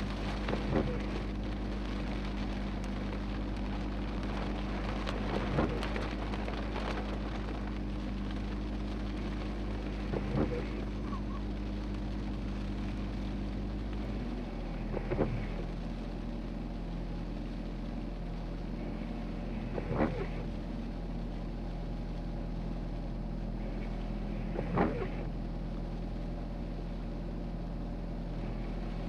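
Idling vehicle engine with a steady hum, and a short swish repeating evenly about every five seconds, typical of windshield wipers on an intermittent setting.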